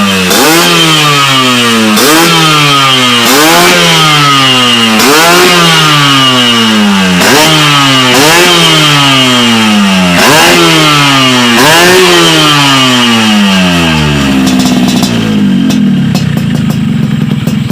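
Motorcycle with a WRS aftermarket racing exhaust revved in about eight quick throttle blips, each rising sharply in pitch and falling away, then settling into a steady idle near the end.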